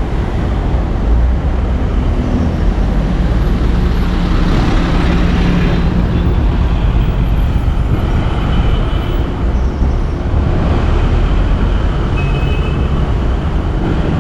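Steady road traffic: vehicles passing with engine and tyre noise and a deep low rumble. A low engine hum stands out from about two to six seconds in.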